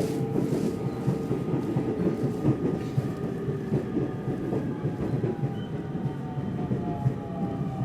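Nishitetsu electric commuter train running on the rails, heard from on board: steady rumble with irregular wheel knocks. From about five seconds in, a faint electric motor whine falls slowly in pitch as the train slows for the next station.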